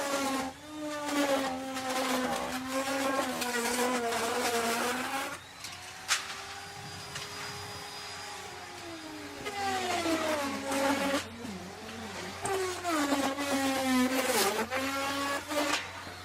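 Electric wood router cutting into wood. The motor's whine sags and wavers in pitch under load, with a rough cutting noise over it. It settles to a smoother, steadier tone for a few seconds in the middle, with a sharp click, then bogs down again as cutting resumes.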